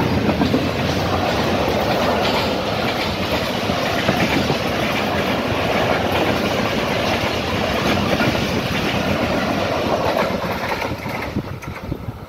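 Passenger coaches of an express train rushing past at speed, wheels clattering on the rails. The noise falls away near the end as the last coach goes by.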